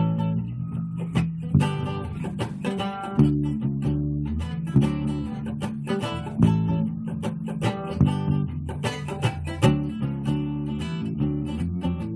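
Guitar and bass guitar playing a rock tune together: strummed chords with a strong accent about every second and a half over steady low bass notes, with no singing.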